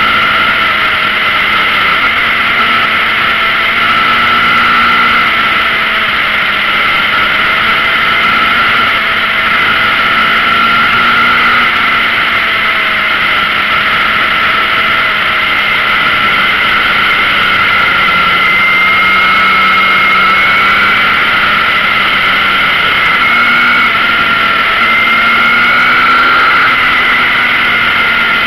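Yamaha XJR's air-cooled inline-four running at a steady cruise, its note wavering gently with the throttle and rising a little late on, under a constant rush of wind on the microphone.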